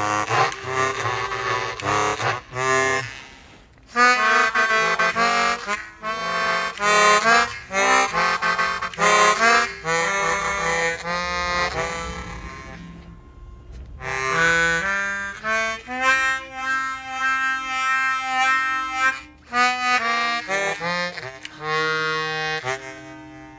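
Suzuki Sirius S48B bass chromatic harmonica played in short phrases of held low notes, sent through a Boss MD500 modulation-effects pedal with reverb added, which gives a wavering, processed tone. There are two brief gaps, about three seconds in and again about halfway through.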